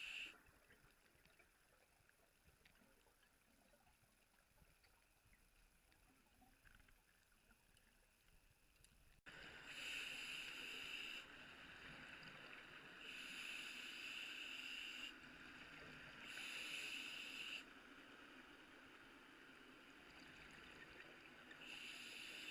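Scuba regulator breathing heard underwater: bursts of bubbling hiss, each one to two seconds long, come about every three seconds over a steady faint hiss. Before an abrupt change about nine seconds in there is only the faint hiss.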